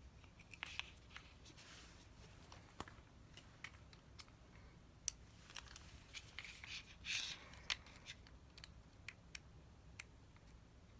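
Faint, scattered clicks and brief light scraping of small parts and hand tools being handled during a lever repair, with a louder rustle about seven seconds in.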